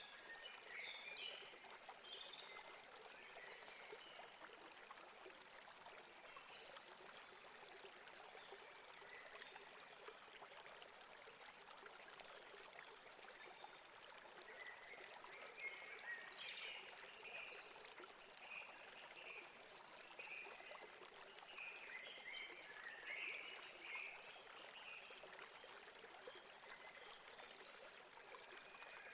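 Faint stream trickling and gurgling over rocks, with birds chirping at intervals, clustered about a second in and again through the second half.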